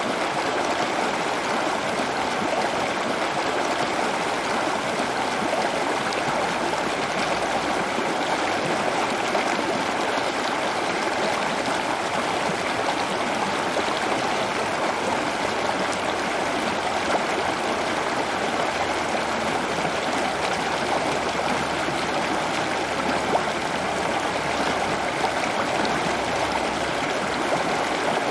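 Running water, a steady rushing flow like a stream or small waterfall, even and unbroken throughout.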